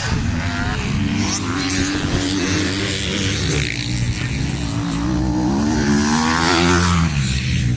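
Racing motorcycle engines revving hard, their pitch climbing and dropping as the riders accelerate and ease off.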